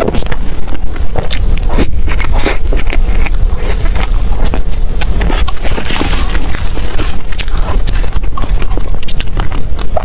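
Close-miked chewing of desserts, with dense, irregular wet clicks and crackles from the mouth over a steady low rumble.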